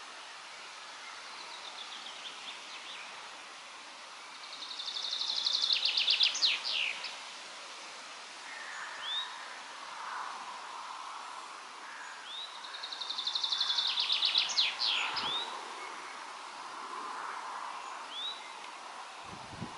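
A songbird sings the same short song twice, about eight seconds apart: a fast trill of high notes that grows louder and ends in a quick flourish. Softer, lower calls come between the songs over a steady outdoor hiss of wind.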